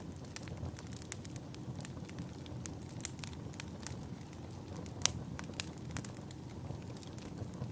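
Wood fire crackling in a fireplace: irregular sharp pops and snaps over a steady low rumble, with the loudest pop about five seconds in.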